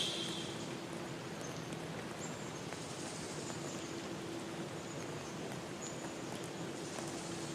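River stream flowing steadily, with a few short, high bird notes scattered through and a brighter chirp at the very start.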